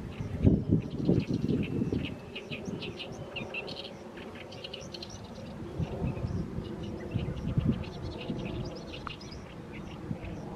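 Oriental reed warbler singing its harsh, chattering song of rapidly repeated grating notes, on and on. Louder low-pitched sounds come in the first two seconds.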